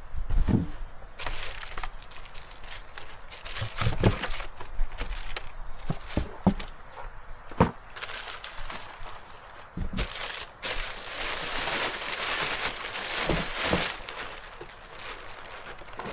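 Irregular knocks and cracks of wood, with a stretch of crunching and rustling beginning about ten seconds in.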